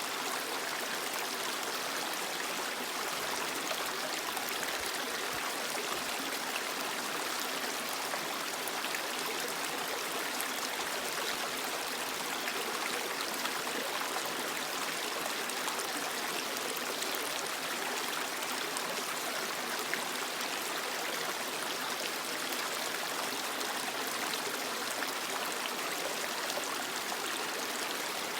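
Creek water flowing steadily over rocks, an even rushing and splashing with no let-up.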